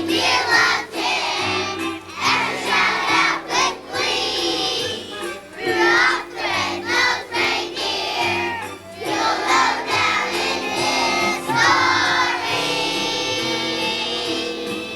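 A children's choir singing a Christmas song over instrumental accompaniment.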